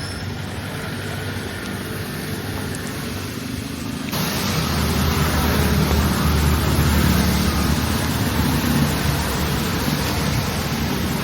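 Steady rain falling, heard as an even hiss. About four seconds in it suddenly turns louder and fuller, and a low rumble like road traffic joins it.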